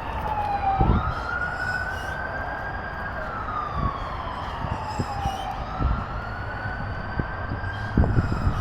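Emergency vehicle siren wailing, its pitch sweeping slowly up, then down, then up again, over a low rumble with a couple of thumps.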